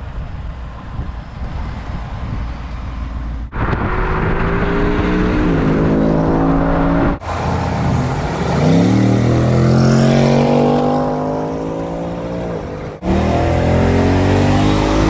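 Ford Mustang GT's 5.0-litre V8: a low rumble at first, then the engine revving up and easing off in three short pieces separated by abrupt breaks. In the middle piece the pitch climbs sharply, then falls away slowly.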